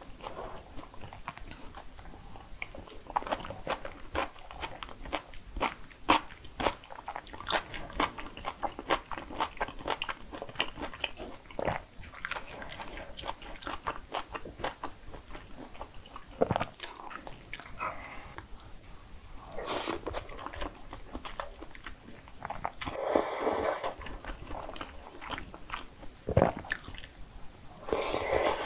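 Close-miked eating sounds of jajangmyeon (black-bean-sauce noodles) being chewed: a steady run of small wet mouth clicks. A few longer, louder noisy bursts come around the middle and just before the end.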